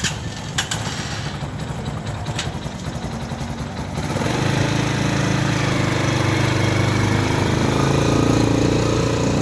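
TEKKEN 250cc oil-cooled motorcycle engine running, with a few sharp clicks in the first seconds; about four seconds in it gets louder and fuller.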